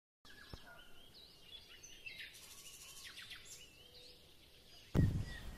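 Faint bird chirps and short warbling whistles. Near the end a much louder rushing noise cuts in.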